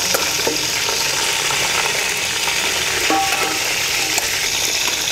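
Whole quails frying in hot oil in a metal pot: a steady sizzle, with a metal ladle stirring them and now and then clicking against the pot.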